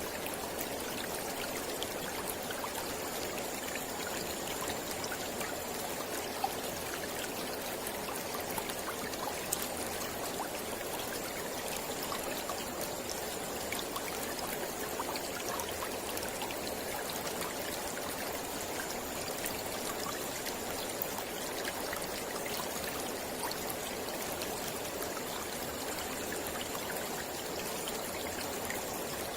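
Mountain river flowing steadily over rocks, an even rushing of water.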